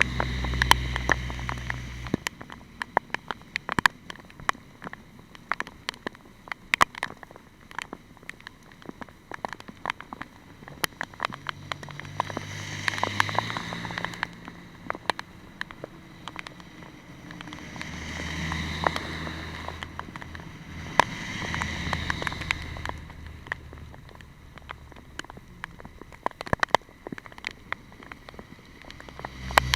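Raindrops striking a hard surface in irregular sharp ticks. Several times a low hum swells up and fades away.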